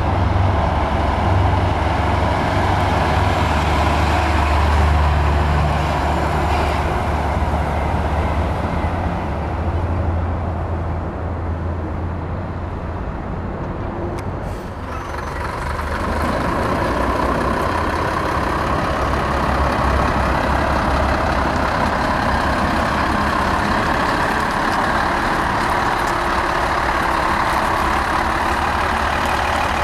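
Heavy diesel truck engines running close by. One truck's low rumble fades away about halfway through, and another truck's engine then builds up and keeps running.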